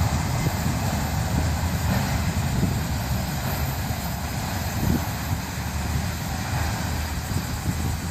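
Freight train's last cars, ending with an auto rack, rolling past on the rails: a steady low rumble of steel wheels with faint irregular clicks.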